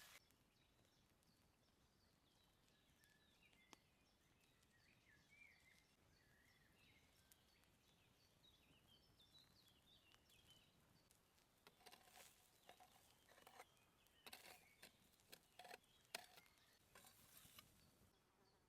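Faint birdsong: small birds chirping. In the second half come a run of light clicks and taps.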